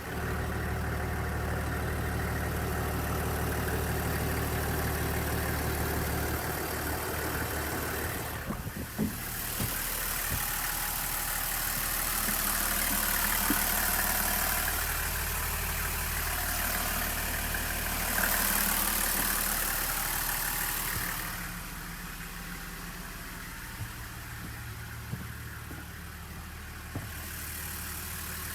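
Toyota Coaster HZB40's 1HZ 4.2-litre inline-six diesel engine idling steadily, growing louder for a stretch in the middle, with two swells, before settling back to a quieter idle.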